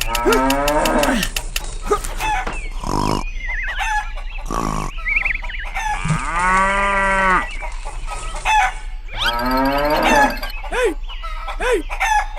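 Farm animal calls: a cow moos once for about a second and a half a little past the middle, among many shorter clucking and chirping calls and sharp clicks.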